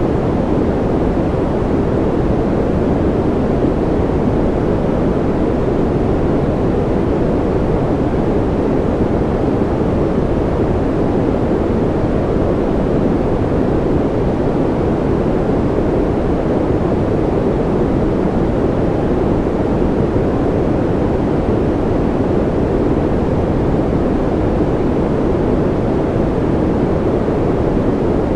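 Steady, unchanging noise track of the kind played as white noise for babies, deep and even, more rumble than hiss.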